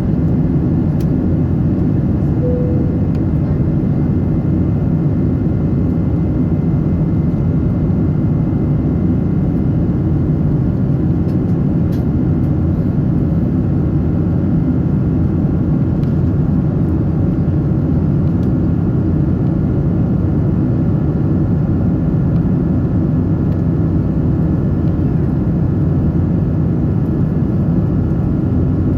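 Steady cabin noise inside a Boeing 777-300 in flight: an even rumble of airflow and engines, with a short faint tone about two and a half seconds in.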